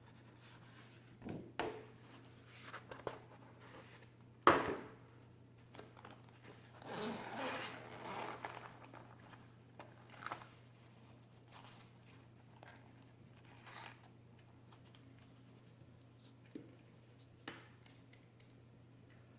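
Faint handling noises: scattered taps and clicks, with a longer papery rustle about seven seconds in, over a steady low hum.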